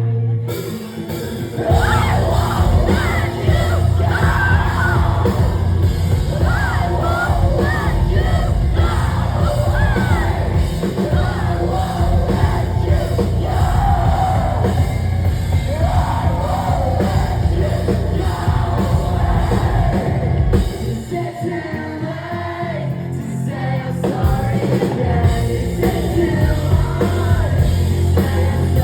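Live heavy rock band playing with singing and yelled vocals, heard through a phone in the crowd. The low end drops out briefly about a second in and again for a few seconds about two-thirds of the way through before the full band returns.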